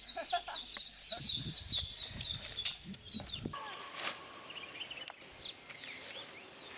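A songbird singing a quick run of repeated high, falling notes, about three a second, which stops about three seconds in; faint low thuds sound underneath during the song.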